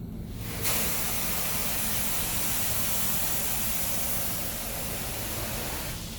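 Touchless car wash spray nozzles spraying liquid onto the vehicle, heard from inside the car: a steady hiss that starts suddenly under a second in and eases off near the end, over a low hum of machinery.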